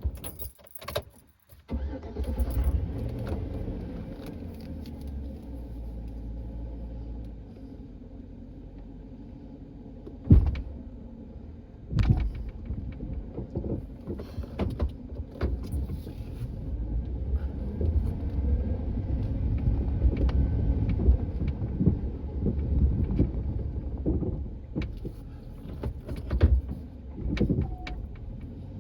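Engine of a snow-clearing vehicle running steadily, with sharp clanks about ten and twelve seconds in and lighter knocks later.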